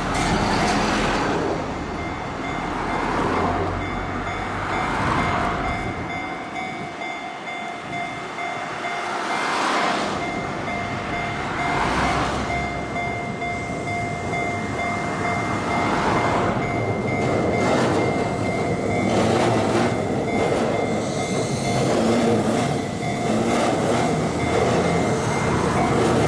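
Keihan electric train running along street-level tracks, with road traffic going by in passing swells. A steady high tone runs throughout, and the train's low rumble grows near the end as it passes close.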